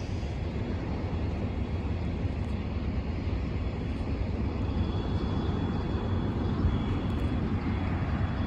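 Amtrak train's Siemens ALC-42 Charger diesel locomotives running while the train stands at the station: a steady low rumble and hum, with a faint high whine joining about halfway through.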